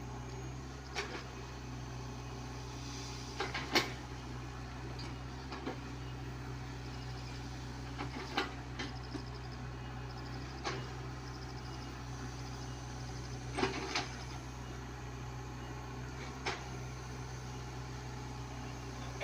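Komatsu PC75UU mini excavator's diesel engine running steadily under work, with sharp knocks and clanks now and then as the machine works.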